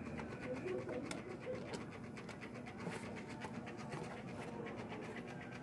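A bird cooing in the background, with low wavering calls, over light handling noise among the wiring.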